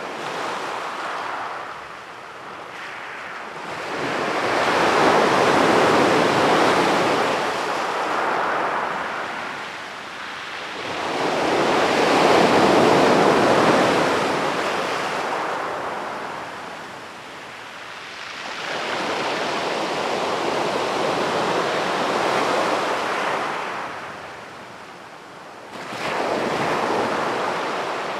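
Sea waves breaking and washing up a beach, each surge rising and falling away over several seconds, about four surges in all.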